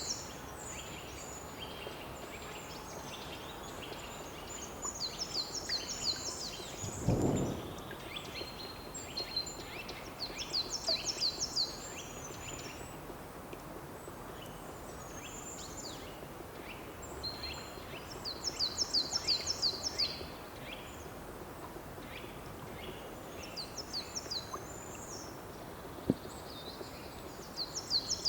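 A songbird repeating a short song, a quick run of high, rapid notes, with a phrase about every five or six seconds, over a faint steady outdoor background. A brief low thump comes about seven seconds in.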